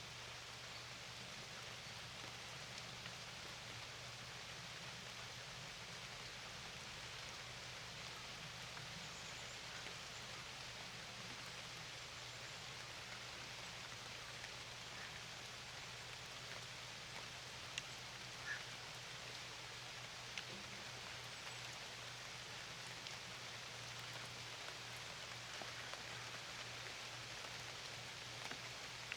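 Steady rain falling, an even hiss of drops with a few louder single drops ticking now and then, over a faint steady low hum.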